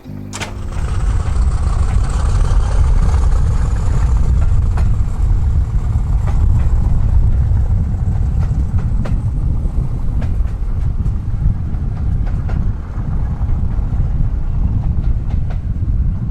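East Lancashire Railway heritage train running: a loud, steady low rumble that starts abruptly, with scattered clicks and knocks over it.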